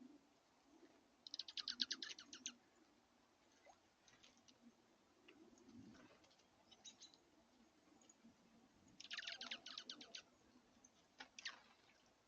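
A small songbird giving a rapid trill of evenly repeated notes lasting about a second, twice, several seconds apart, with a few faint single chips in between.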